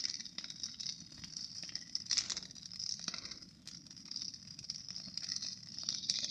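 Campfire crackling, with many small irregular pops and snaps over a steady high-pitched buzz.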